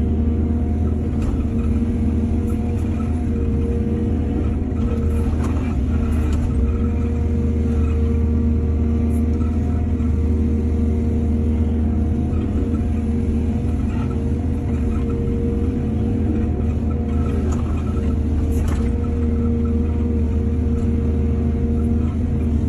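Heavy diesel engine of an excavator running steadily with a deep, even hum, with a few short knocks about a second in, around five to six seconds in, and near nineteen seconds.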